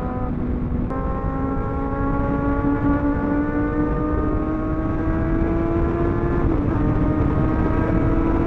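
Superbike engine pulling at highway speed, its note climbing slowly as it accelerates, over heavy wind noise on the microphone.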